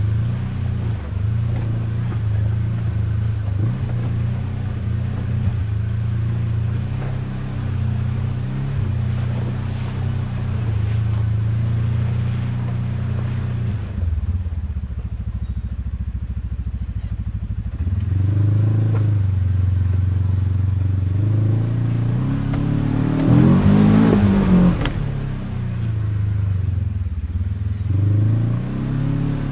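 Off-road vehicle engine running at low revs while crawling along a trail, its pitch shifting with the throttle. It revs up briefly about 24 seconds in.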